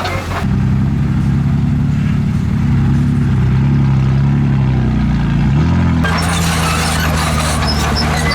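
Heavy diesel engine of earthmoving machinery running, a loud steady low drone whose pitch shifts about five seconds in. For most of the first six seconds only the low engine sound is present; after that, scattered high squeaks and rattles of working machinery sit over it.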